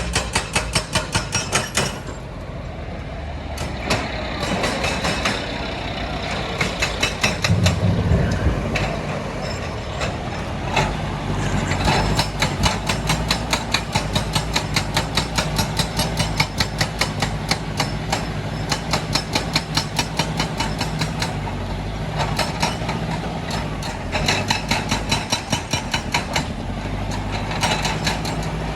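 Heavy diesel machinery running with a steady low drone, broken by spells of rapid, evenly spaced metallic clatter at about five knocks a second.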